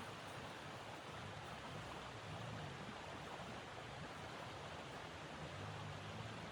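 Blizzard wind blowing steadily: a faint, even rushing hiss with a low, wavering rumble underneath.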